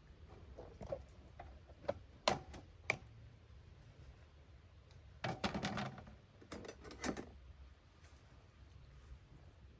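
Scattered light clicks and knocks of camp cooking gear being handled, with two short clattering bursts about five and seven seconds in, over a faint low rumble.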